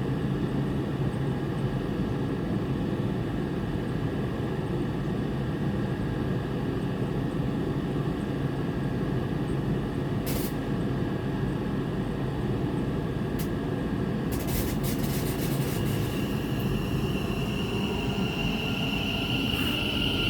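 Train running, a steady low rumble throughout. About three quarters of the way in, a high, steady whine comes in and holds, just after a brief patch of clicking and rattling.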